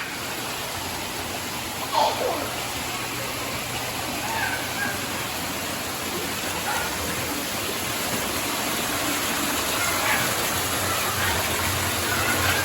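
Steady rush of falling water, with a few brief voices over it; the rushing cuts off abruptly at the end.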